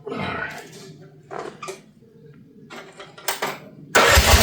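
A few light clicks and knocks, then about four seconds in the Future FT15 mini excavator's gasoline engine fires and runs with a fast, even beat: a cold start on choke after refuelling.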